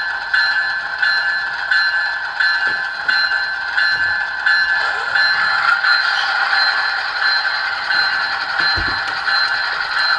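Recorded Graham White E-bell sound from an ESU LokSound decoder ringing steadily through the small speaker of an HO-scale ES44AC model locomotive, about three strikes every two seconds.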